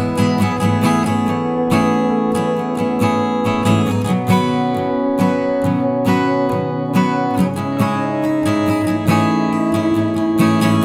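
Background music: strummed acoustic guitar playing steady chords in a regular rhythm.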